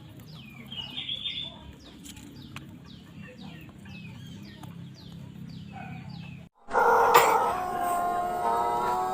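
Pelung rooster crowing. Faint high chirps repeat about two to three times a second over a low hum, then after a sudden cut a loud crow starts about two-thirds of the way in, holding a long steady note that slowly rises.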